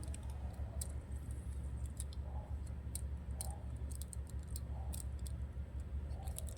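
Scattered light clicks at irregular intervals over a steady low hum.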